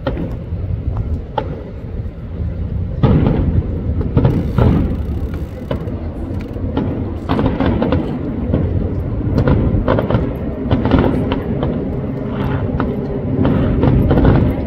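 Distant fireworks going off in quick succession: a dense run of booms and crackles from about three seconds in, over a steady low rumble.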